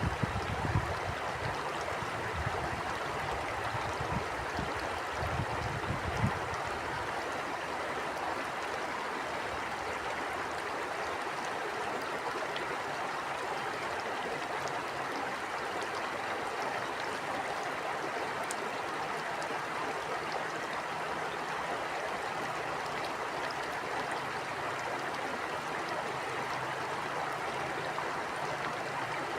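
River stream flowing steadily, a continuous rushing of water. Low gusts of wind buffet the microphone during the first few seconds, then die away.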